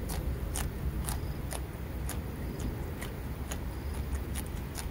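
Close-up chewing of a raw yardlong bean: irregular crisp crunches and wet mouth clicks, over a steady low rumble.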